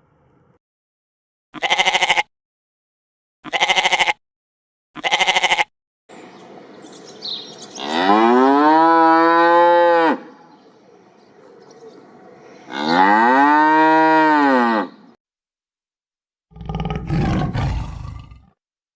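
Cow mooing: two long moos that rise and then fall in pitch, each about two seconds, after three short calls spaced evenly about a second and a half apart. A low, rough sound starts near the end.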